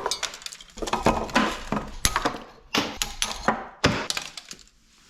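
Irregular clattering and knocking of hard objects being handled and set down, a dozen or so sharp knocks over a few seconds, dying down near the end.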